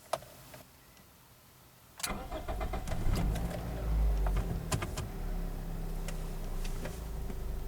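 A couple of clicks, then about two seconds in the 2007 Toyota Matrix's 1ZZ-FE four-cylinder engine is cranked, catches and settles into idle. A steady whine runs over the idle, a whine that appeared after a new clutch, pressure plate and throw-out bearing and that the owner says follows engine speed.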